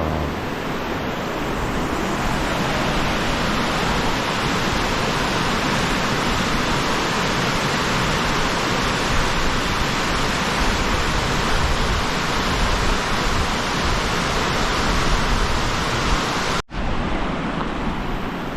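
Steady, loud rush of fast-flowing stream water, breaking off for an instant near the end.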